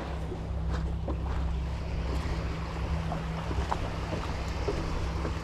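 Wind on the microphone over the wash of surf at the shore, with a steady low drone underneath.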